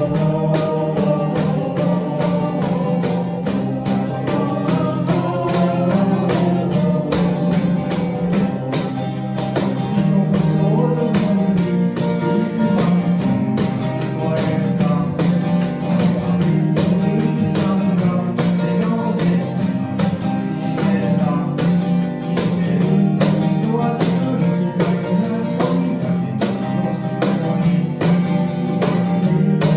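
Live band music: acoustic guitar strumming a steady rhythm, with singing.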